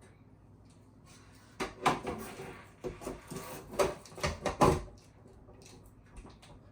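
A run of knocks, scrapes and clunks as a bathroom exhaust fan housing is pushed up and worked into its ceiling opening. The sounds start about one and a half seconds in and stop a little before five seconds, with the loudest knocks near two, four and four and a half seconds.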